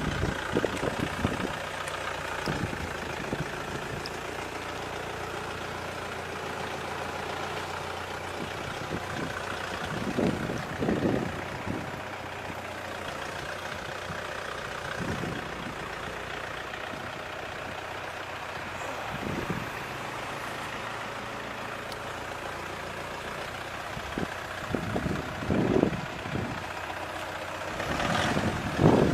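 Vehicle engine idling steadily, with a few short thumps scattered through.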